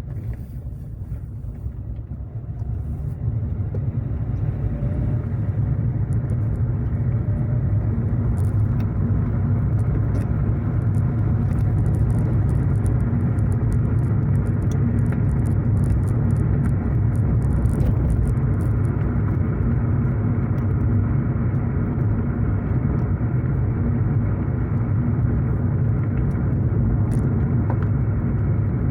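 Car driving, a steady low rumble of engine and tyres that swells over the first few seconds and then holds even, with scattered faint ticks.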